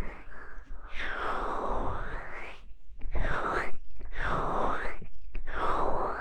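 Hands covering and rubbing over a microphone's ears, giving a string of muffled, airy swooshes about once a second, each one dulling and then brightening as the hand closes and lifts.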